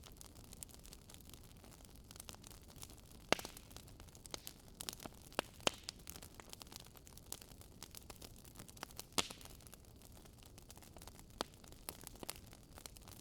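Wood fire crackling in a fireplace: irregular sharp pops and snaps over a soft steady hiss, with one louder pop about three seconds in.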